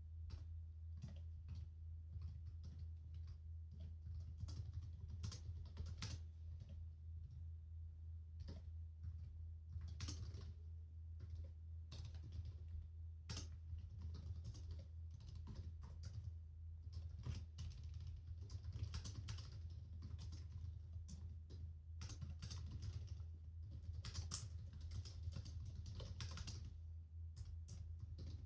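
Typing on a computer keyboard: quick, uneven runs of key clicks with short pauses between them, over a steady low hum.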